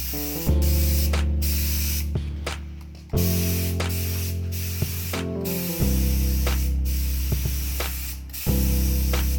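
Paint spray gun hissing, with brief breaks as the trigger is let off, over background music with sustained low chords that change every few seconds.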